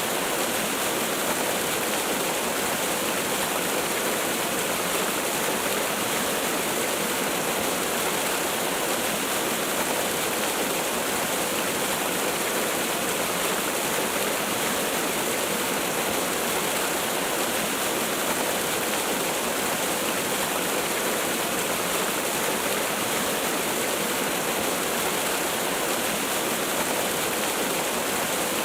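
Waterfall: water pouring and splashing in a steady, unbroken rush with no change in level.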